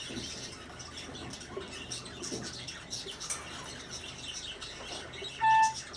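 Budgerigars chattering: a constant run of quick, soft, high chirps and clicks. About five and a half seconds in, a short, loud, steady beep-like tone cuts in.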